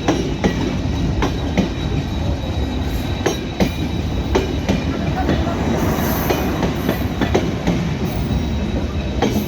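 Broad-gauge passenger train running on the line: a steady rumble of wheels on rail, with irregular clacks as the wheels cross rail joints.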